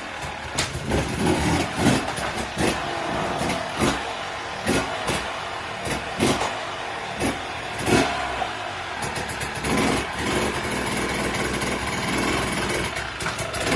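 Dirt bike engine running and revving, with many sharp knocks and clatters through it.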